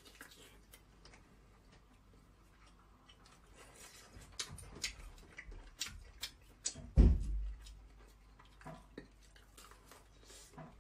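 Close-up chewing and mouth sounds of someone eating lobster meat: irregular wet clicks and smacks. A single loud low thump comes about seven seconds in.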